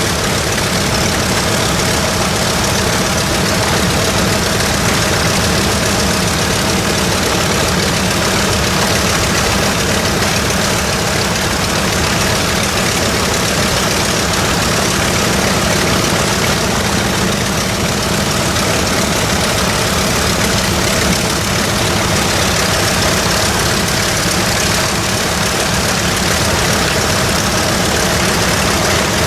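Nakajima Sakae 14-cylinder air-cooled radial engine of an A6M5 Zero fighter running steadily at a low, even setting.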